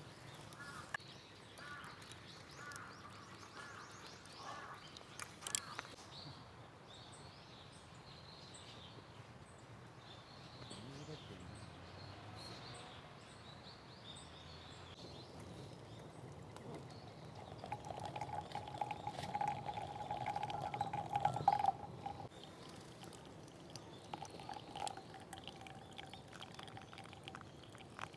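Birds calling, a run of short repeated calls in the first few seconds, then scattered high chirps, over faint outdoor ambience. Past the middle a steady mid-pitched tone sounds for a few seconds, and briefly again later.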